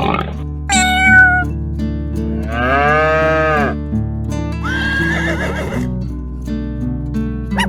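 Farm-animal calls over background music: three separate calls, the middle one rising and falling for about a second.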